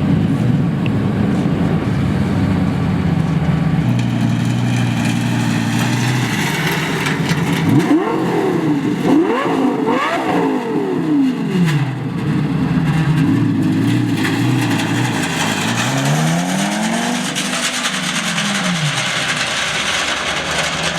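Lamborghini V10 engine breathing through an oversized aftermarket exhaust, idling steadily and then being revved: a run of quick blips about eight seconds in, then a couple of slower rises and falls before it settles back to idle near the end.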